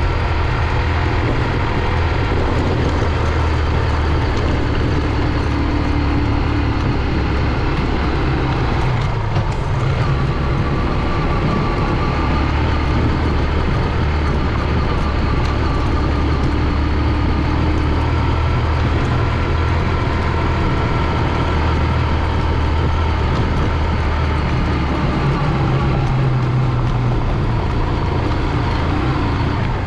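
Honda CG 125's single-cylinder four-stroke engine running steadily under way, its low hum shifting slightly in pitch a couple of times.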